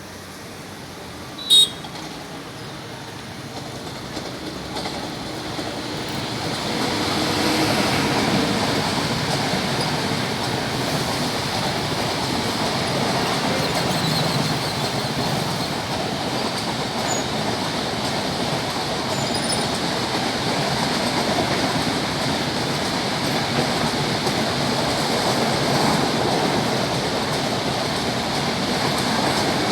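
Indian Railways passenger train running past, the rolling noise of its coaches on the track building up over several seconds and then holding steady. A single sharp crack about a second and a half in.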